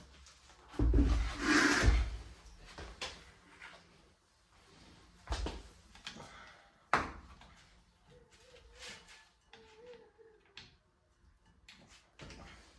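Metal clunks and knocks of parts and tools being handled at a car's rear wheel hub during brake drum removal. A loud scraping clatter lasts about a second near the start, followed by two sharp knocks and a few lighter clicks.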